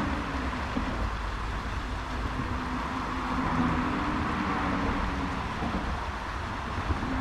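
Steady outdoor background noise with a low rumble and a faint wavering hum, even throughout, with no distinct events.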